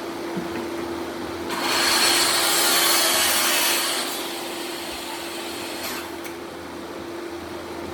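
A tool working wood, making a burst of noise that starts about one and a half seconds in and lasts about two and a half seconds, over a steady hum.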